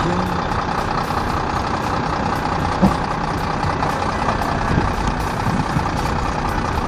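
A heavy engine running steadily, with a few faint knocks.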